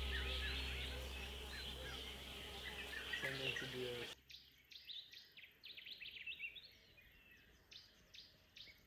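Birds chirping and calling over a steady low hum. About four seconds in, the hum cuts off abruptly, and a run of short, sharp chirps repeats one or two times a second.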